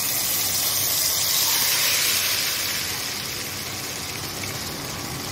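Yogurt-marinated chicken hitting hot oil with whole spices in a nonstick kadhai and sizzling loudly. The sizzle is strongest about two seconds in, then eases a little.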